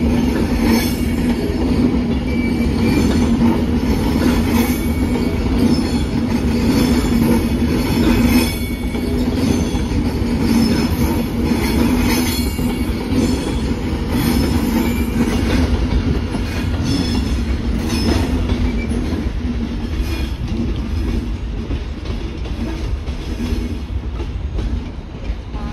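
Avanti West Coast passenger train passing slowly over pointwork: a steady rumble of the coaches with irregular wheel clicks over the rail joints and crossings every second or two.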